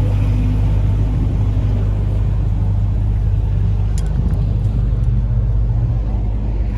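A car engine running close by with a loud, deep exhaust rumble, its pitch lifting slightly about five seconds in.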